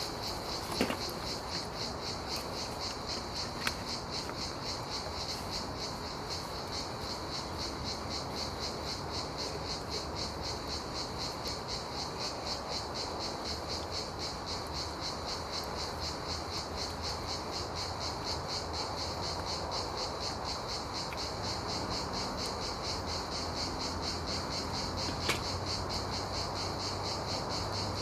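Crickets chirping steadily, a fast even pulse of high chirps, with a few sharp clicks, one about a second in, one a few seconds in and one near the end.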